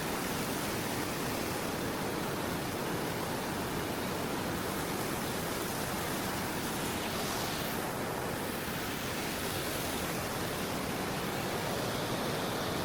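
Steady rushing of water, an even wash of noise with no breaks.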